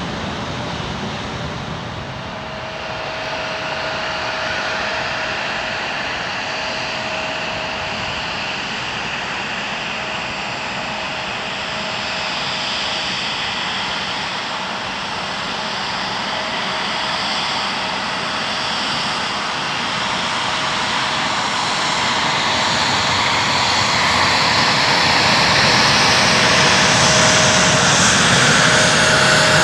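Boeing 777F freighter's twin GE90 turbofans on approach to land: a steady jet rumble with a thin whine, growing louder toward the end as the aircraft comes nearer.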